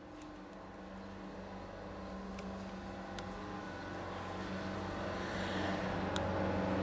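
A motor vehicle's engine running at a steady pitch and growing gradually louder, with a few light clicks.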